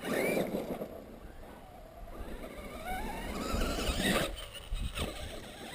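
Traxxas E-Maxx electric RC monster truck accelerating: a burst of noise, then the electric motor whine rising steadily in pitch, which cuts off suddenly about four seconds in.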